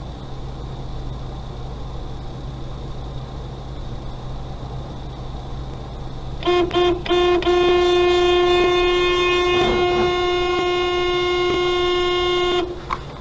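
Car horn honked: three quick short toots about six and a half seconds in, then one long steady blast of about five seconds that cuts off near the end. A steady low hum underlies it.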